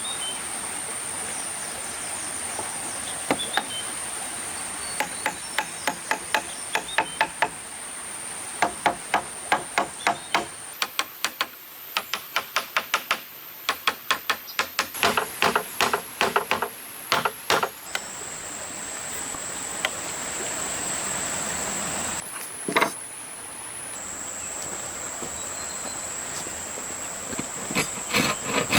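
A hammer knocking on wood in quick runs of sharp strikes, several a second, with short pauses between runs, over a steady high whine.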